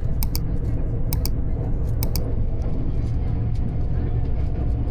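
Passenger train running, a steady low rumble. Three quick pairs of sharp clicks come about a second apart in the first two seconds.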